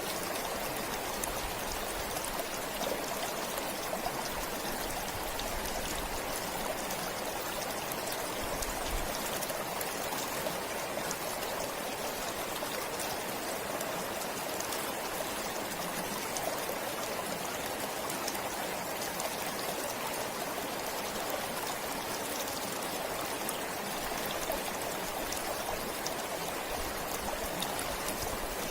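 Forest stream flowing steadily: a continuous rush of running water with fine little splashes through it.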